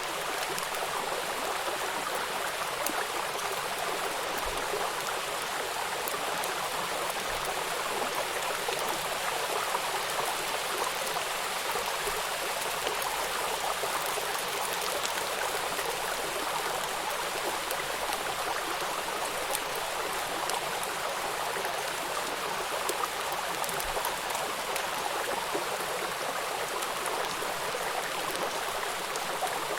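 Steady rushing of a small waterfall and river water pouring over rocks, an even white-noise wash with no breaks.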